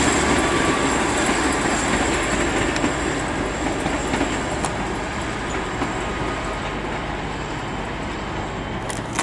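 Class 150 diesel multiple unit moving through the station, its running noise slowly fading, with a thin steady high whine that drops away near the end.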